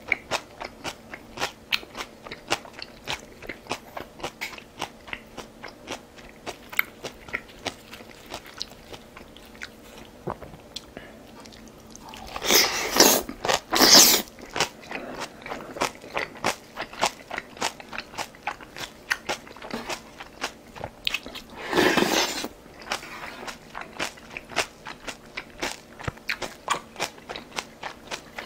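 Close-miked chewing and crunching of food, steady at about three chews a second, with two louder, noisier stretches about halfway through and about three-quarters of the way.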